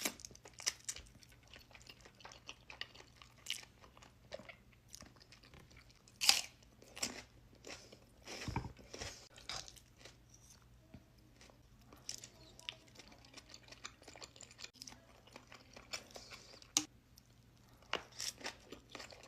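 A person chewing food close to the microphone, with irregular crunching bites, a few of them louder than the rest.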